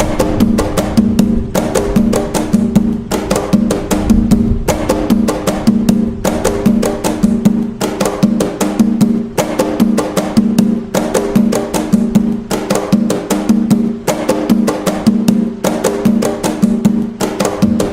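Atabaque hand drums playing the nagô rhythm (toque de nagô), a dense, steady repeating pattern of strikes with ringing low drum tones.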